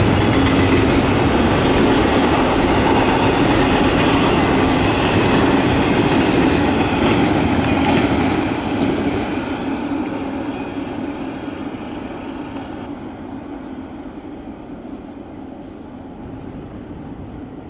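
A double-stack container freight train rolling past at speed, its cars and wheels making a loud steady rumble on the rails. From about eight seconds in, the rumble fades as the end of the train passes and moves away.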